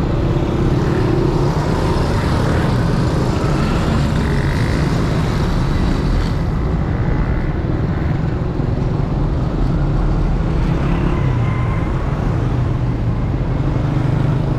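Steady, loud rumble of motor vehicles on a road, traffic noise with no clear single event.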